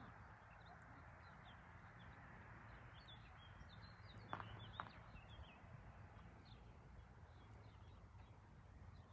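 Faint small birds chirping and twittering outdoors, with two short knocks about half a second apart a little past the middle.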